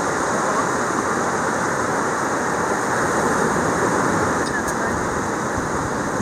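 Atlantic Ocean surf washing steadily onto the beach: a continuous rush with no breaks.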